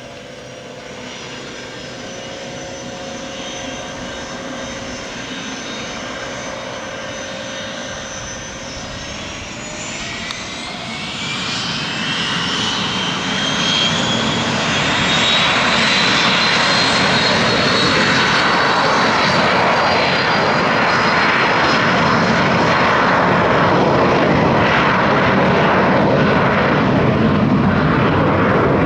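Aircraft turbine engines running and growing louder, with a whine that rises in pitch from about eight seconds in, then a loud, steady noise as power builds.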